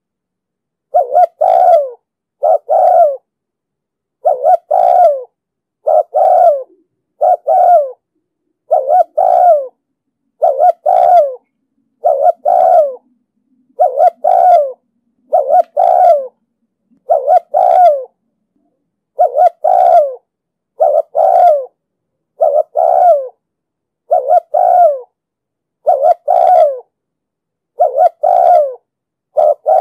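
Spotted dove giving the rapid 'thúc gù' cooing call, a steady run of short, deep coos about one a second with silence between them.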